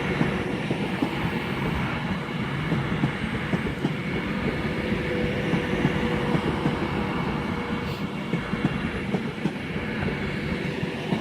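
Steady rumble and hum of a Class 390 Pendolino electric train standing at a station platform, with a faint steady tone through the middle.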